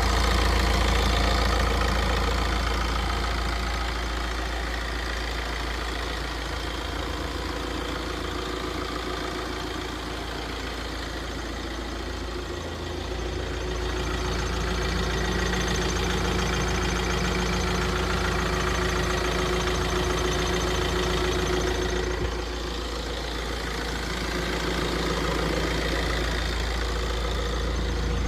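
Tata Safari Dicor's diesel engine idling steadily with a knock, which the owner attributes mostly to a glow plug.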